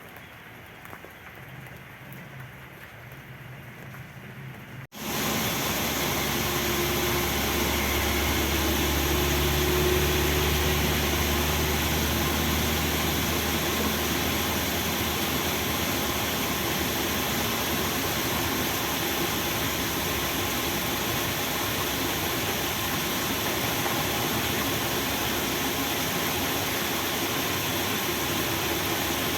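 Rain falling steadily, then about five seconds in it jumps abruptly to a much louder, steady downpour with wind rumbling on the microphone.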